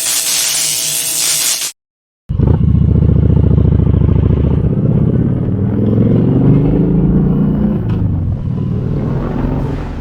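A short burst of loud rushing noise, a brief silence, then a Kawasaki Vulcan 1700's V-twin engine running and revving, its pitch rising and falling.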